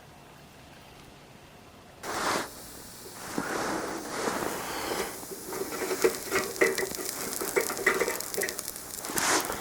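Footsteps crunching through snow, starting about two seconds in after a quiet start, with an irregular run of crisp crunches.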